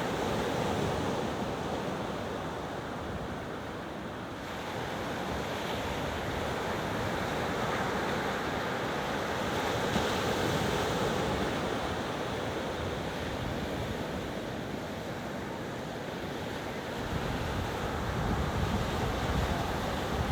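Ocean surf washing onto a beach, a steady rush that swells and eases, with wind rumbling on the microphone, stronger near the end.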